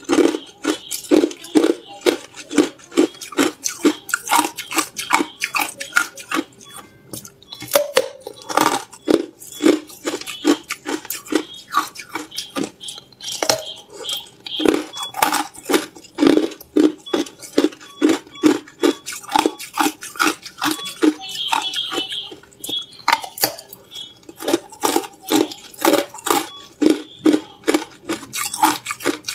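Hard clear ice being bitten and chewed: a long run of sharp crunches, about two to three a second, with a couple of brief pauses.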